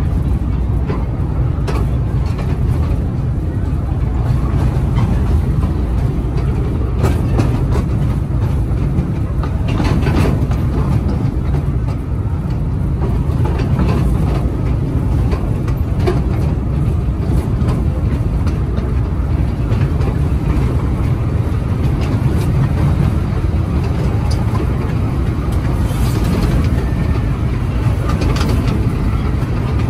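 Miniature amusement-park train running along its track, heard from aboard: a steady low rumble with a few scattered clicks from the wheels and rails.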